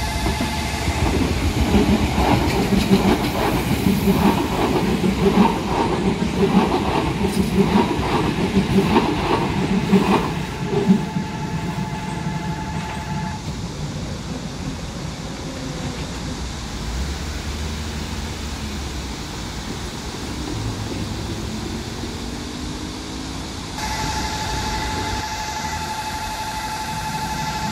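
ITX-Cheongchun electric train passing close by, its wheels beating out a rhythmic clickety-clack over the rail joints for about ten seconds. A level-crossing warning bell rings steadily until it stops about 13 seconds in, then starts again near the end as the next train approaches.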